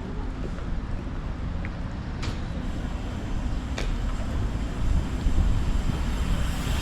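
Outdoor street ambience: a steady low rumble, with two short clicks partway through, getting a little louder near the end.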